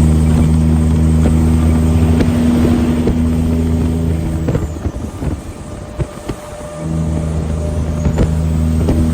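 Semi truck engine running with a steady low drone, which drops away for about two seconds midway, a few clicks sounding in the gap, then comes back.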